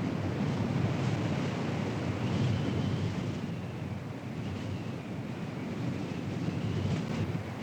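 Strong wind rushing and buffeting the microphone in a steady roar that swells and eases, with a faint high tone wavering up and down through it.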